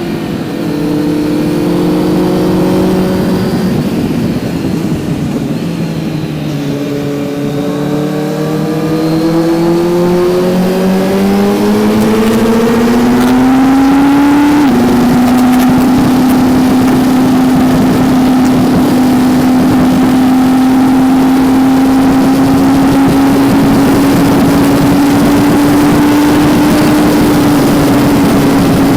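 Kawasaki Z900's inline-four engine heard onboard while riding: revs hold, dip, then climb steadily for several seconds under acceleration. About fifteen seconds in the pitch drops abruptly at an upshift, and the engine then holds nearly steady revs at cruise.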